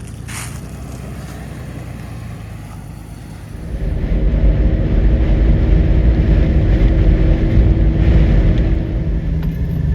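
A motor vehicle engine running steadily, then growing much louder about four seconds in and holding there.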